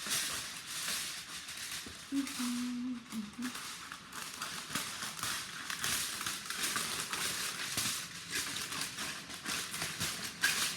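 Aluminium foil crinkling and rustling as it is handled and cut, a crackly noise full of small clicks.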